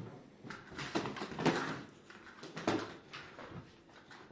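Cats playing indoors: a handful of short scuffling noises, clustered about a second in and again near three seconds.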